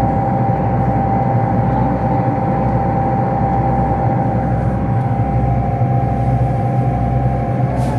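Boat engine running steadily, an even low drone with a constant hum over it, heard on board.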